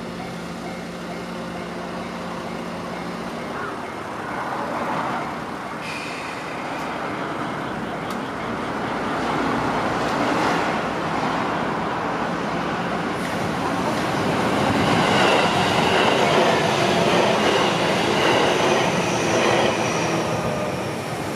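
Electric train on the JR Gotemba Line running past through a level crossing, the rolling noise of wheels on rails building from about four seconds in, loudest in the last third and easing slightly near the end.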